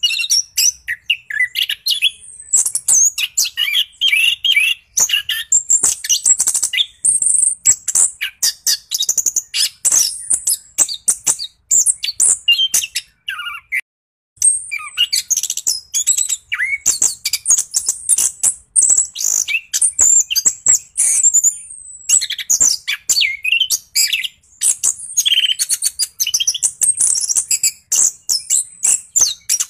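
Orange-headed thrush in full, rolling song: a fast, unbroken stream of varied chirps, trills and whistles, with a short break about halfway through.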